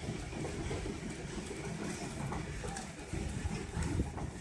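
Heritage train's passenger coach rolling along the track: a steady rumble of wheels on rails, with a few sharper knocks about four seconds in.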